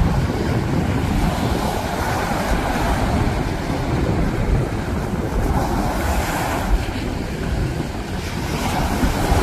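Steady rumbling noise, heaviest in the low end, with no distinct events.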